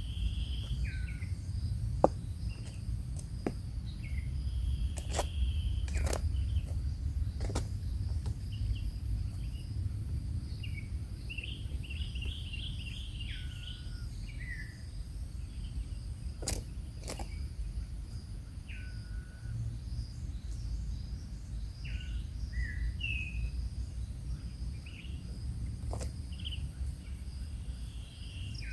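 Birds calling outdoors in short chirps and down-slurred whistled notes, with a quick run of repeated notes about twelve seconds in, over a steady high insect drone and a low rumble. Scattered sharp knocks or clicks, the loudest about two seconds in.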